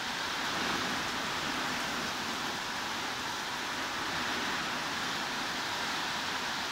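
Steady heavy rain as an even, unbroken hiss, with no separate drops or thunder standing out.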